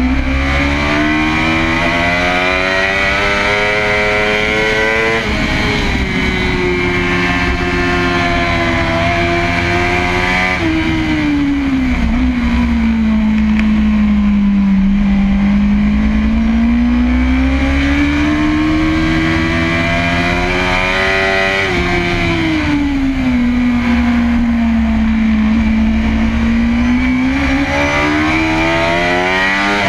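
Kawasaki ZX-10RR's inline-four engine under hard riding on a race track: revs climb steadily, step down at a gear change about five seconds in, sag through a long slower stretch near the middle, climb again, dip once more after about twenty seconds and rise toward the end.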